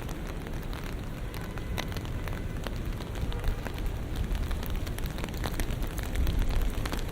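Rain falling on city streets, with many scattered sharp drop ticks over a steady low rumble of traffic.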